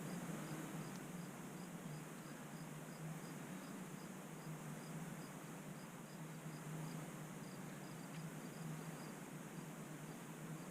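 A cricket chirping steadily, about three short high chirps a second, over a faint low hum and hiss.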